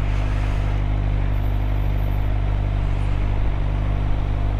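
2013 Suzuki GSX-R 600's inline-four engine running steadily at low, constant revs, as in slow traffic, with no revving.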